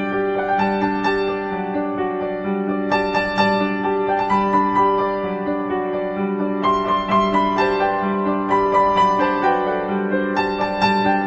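Background music: piano playing a slow, gentle melody over held chords.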